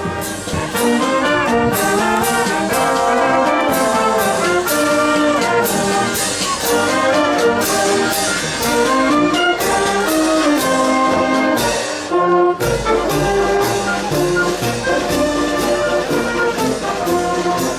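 Marching brass band playing a tune over a steady drum beat, about two beats a second. The sound drops out briefly about twelve seconds in, then the band carries on.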